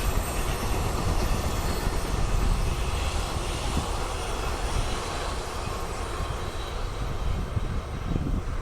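Freight train rolling past on the rails: a steady, loud rumble of wagon wheels on track.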